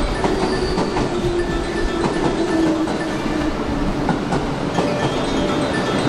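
Electric commuter train running past along the platform, its wheels clicking over the rail joints, with a low whine that falls slightly in pitch over the first few seconds.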